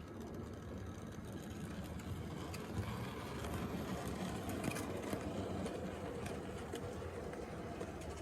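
H0-scale model train running on the layout's track: a steady motor hum and wheel rumble that grows louder as the train comes closer, with a few sharp clicks.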